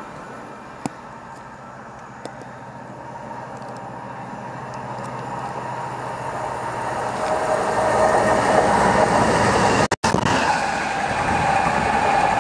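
A train approaching along the line, its noise building steadily from about four seconds in to a loud pass with a steady whine. The sound drops out for an instant near the ten-second mark.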